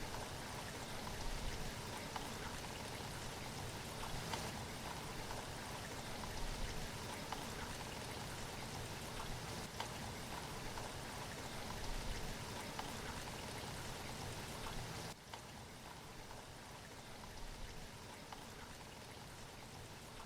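Steady rushing and splashing of sea water, an even wash with small splashes, dropping a little in level about fifteen seconds in.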